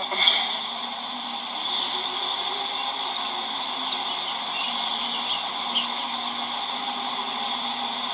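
Honeybee swarm buzzing around a freshly filled hive box, a steady drone of many wings.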